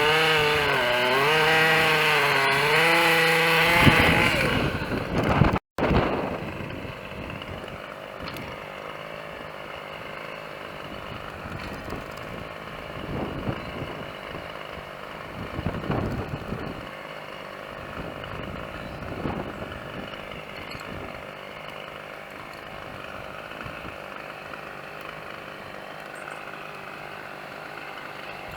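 Two-stroke chainsaw running at high revs for about four seconds, its pitch dipping and rising as it works through the wood. It cuts off abruptly, and a quieter steady low hum follows with a few soft thumps.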